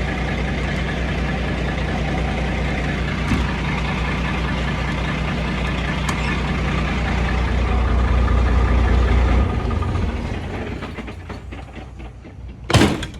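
Semi truck's diesel engine idling with a steady low rumble, then shut off about nine and a half seconds in and dying away. A single sharp knock near the end.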